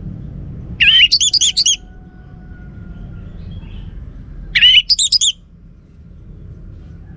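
Orange-headed thrush singing: two short phrases a few seconds apart, each a looping whistled note followed by a quick run of high looping notes, over a steady low rumble.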